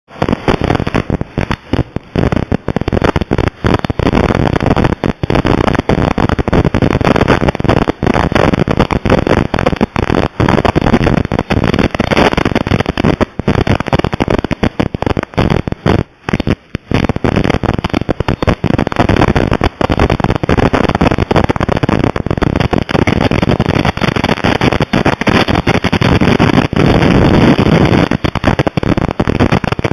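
Strong summer-storm wind buffeting the microphone: a loud, continuous noise with many brief dropouts.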